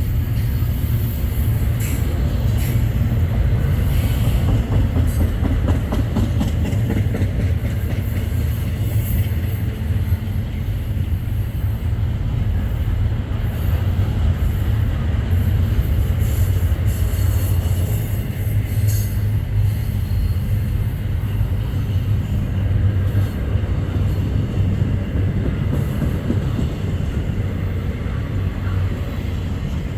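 Freight train passing close by: a steady, heavy rumble of rolling cars with scattered clicks of wheels over rail joints and faint thin wheel squeal.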